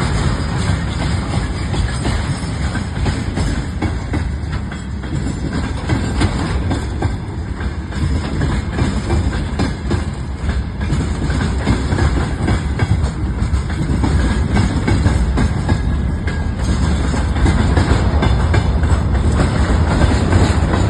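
A train passing close by: steady rumble of wheels on the rails with dense clatter, getting a little louder in the last few seconds.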